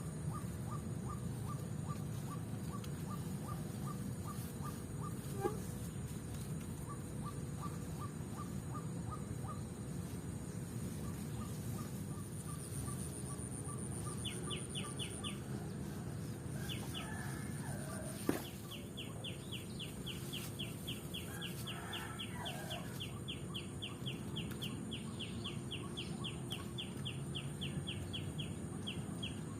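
Birds calling in evenly repeated short notes, first a slower series of lower notes, then from about halfway a faster run of higher notes, over a steady low rumble and a thin high whine. A sharp click sounds about two-thirds of the way through.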